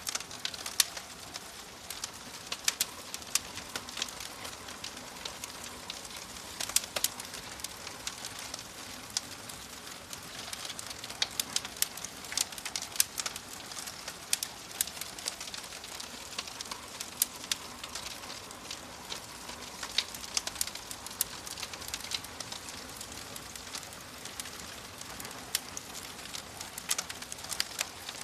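Wood fire burning in a fireplace, crackling with many sharp, irregular pops and snaps over a steady low hiss of the flames.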